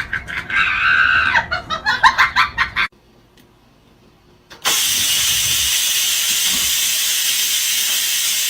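Wavering voice-like cries for about three seconds, a short silence, then a loud, steady hiss for about four seconds that cuts off suddenly.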